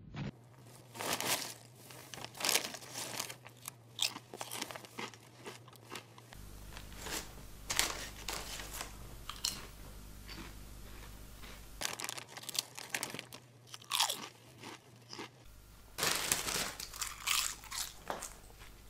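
Someone chewing crunchy food: a run of irregular crunches and bites, in clusters with short pauses between them.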